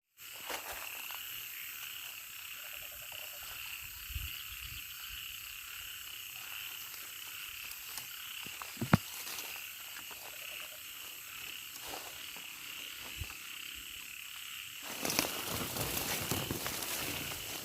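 A steady chorus of frogs and insects calling, a continuous high trilling drone. A sharp click about nine seconds in, and louder rustling and crackling from about fifteen seconds on.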